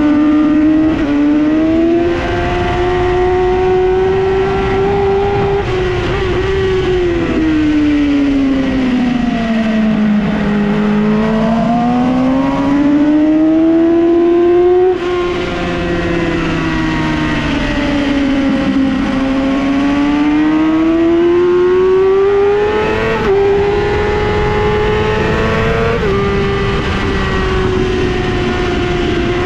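Yamaha R6 (2008) 600cc inline-four engine at high revs under hard riding, over steady wind rush. Its pitch climbs and falls over several seconds as the bike accelerates and brakes, jumping abruptly at gear changes, a few times.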